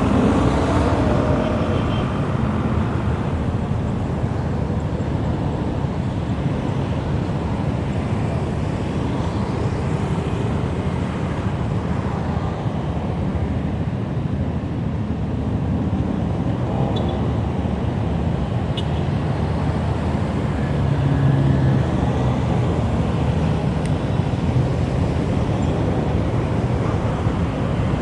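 Steady low rumble of wind and road noise from riding a bicycle, with traffic noise around.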